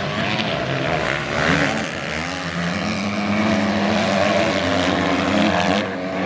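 Several motocross bikes racing, their engines revving up and falling back as they are shifted and throttled through the track, overlapping at different pitches.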